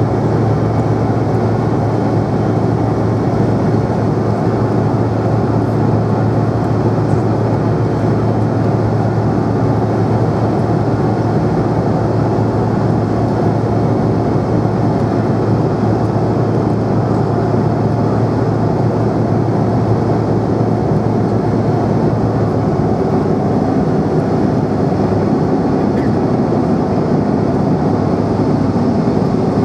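Steady cabin noise of a Bombardier CRJ700 regional jet in flight: its two rear-mounted turbofans and the rush of air past the fuselage, with a constant low hum under an even roar.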